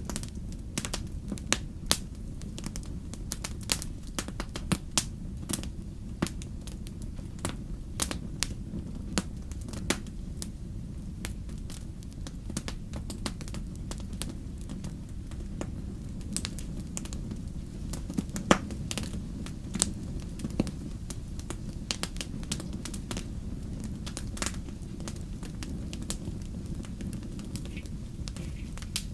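Wood fire crackling in a fireplace: a steady low rumble of flame with frequent, irregular sharp pops and snaps, one louder pop a little past the middle.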